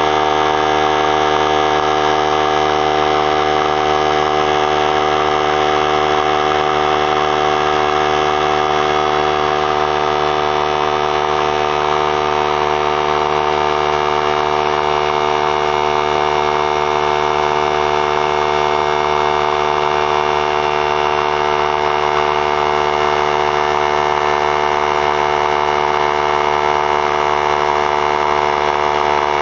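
3-gallon oilless pancake air compressor running steadily, its motor and pump filling the tank toward 100 psi with the drain valve closed.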